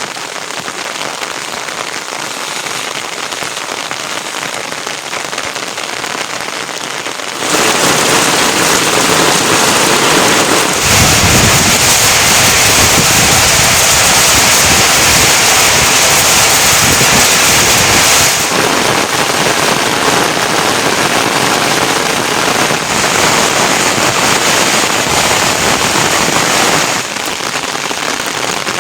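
Heavy rain falling, a steady spattering noise that jumps abruptly louder about a quarter of the way in and again shortly after, then drops back in two steps.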